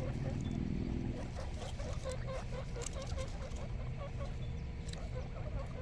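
Baby guinea pigs giving soft little squeaking peeps, several a second, without a break. There is a low buzz in the first second or so.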